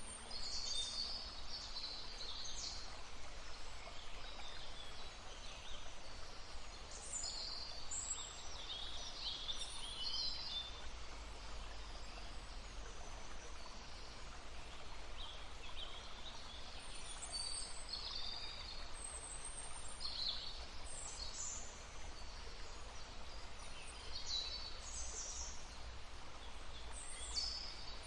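Songbirds chirping and trilling in short high phrases every second or two, over the steady rush of a babbling stream.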